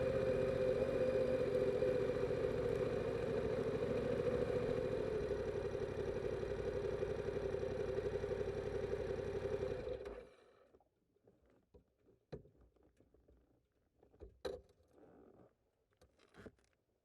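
2022 Yamaha R7's 689 cc parallel-twin engine with stock exhaust, running steadily at an even pitch, then switched off about ten seconds in. A few faint clicks and knocks follow.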